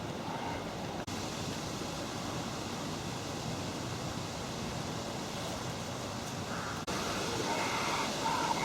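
Steady outdoor background noise, broken by two brief dropouts, with faint voices near the end.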